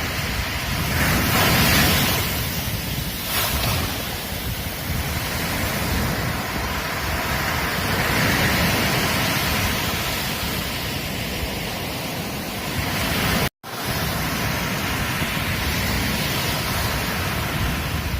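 Ocean surf breaking and washing on a beach, swelling louder a few times, with low wind rumble on the microphone. The sound cuts out for an instant about two-thirds of the way through, then resumes.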